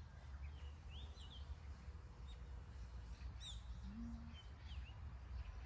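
Faint outdoor ambience: a few short, scattered bird chirps over a low, steady background rumble.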